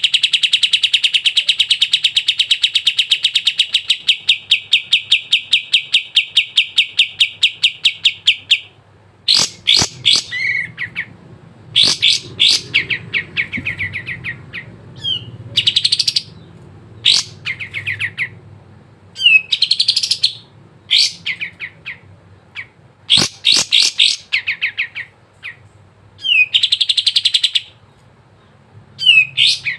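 Kapas tembak bulbul singing in full song. For about the first nine seconds it gives a long, fast trill of repeated high notes. It then breaks into short bursts of rapid chattering notes and brief rising whistles every second or two.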